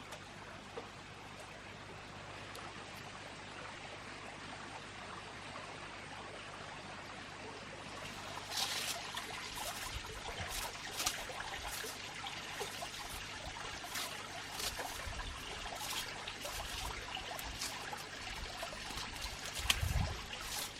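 Water trickling steadily, growing louder about eight seconds in, with irregular sharp ticks scattered through the second half.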